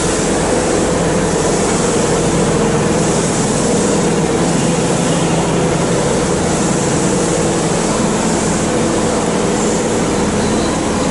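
Keihan 2600-series electric train giving a steady hum, with several constant low tones over a hiss.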